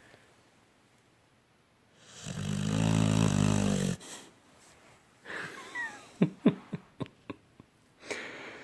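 Sleeping pit bull snoring: one long, low, buzzy snore about two seconds in, lasting nearly two seconds. Softer breathing follows, with a brief faint whistle and several small clicks.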